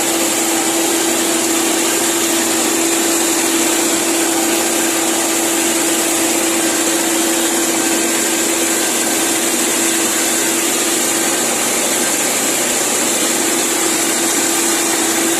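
Tractor-driven crop sprayer running steadily while spraying, a constant hum under a strong, even hiss with no change in speed.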